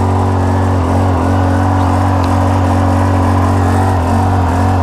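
Rainman watermaker's motor and high-pressure pump running steadily with a constant low hum, on a test run making fresh water from brackish water.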